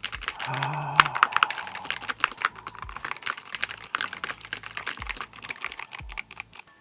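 Fast, continuous typing on a Keychron Q6 HE keyboard with magnetic Hall-effect switches and PBT keycaps: a dense, irregular clatter of keystrokes.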